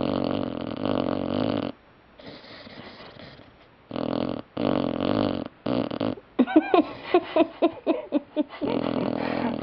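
Puppy snoring in its sleep: long raspy breaths, then for about two seconds a quick run of short squeaky, whistling sounds, around five a second, before the raspy breathing comes back.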